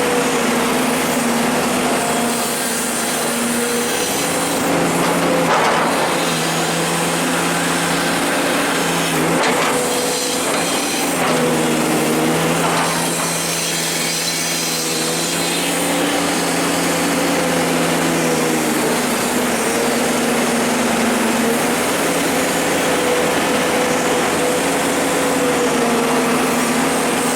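Komatsu hydraulic excavator's diesel engine running under working load, its pitch shifting slightly as the hydraulics take effort, with occasional scrapes and knocks from the bucket working the ground.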